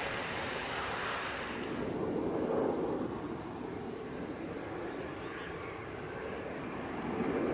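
Distant jet airliner engine noise, a steady rushing sound that swells twice, with a constant high hiss above it.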